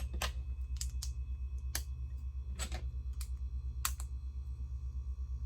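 Small plastic Lego pieces clicking as they are handled and picked out, about nine sharp, separate clicks at uneven intervals, over a steady low hum.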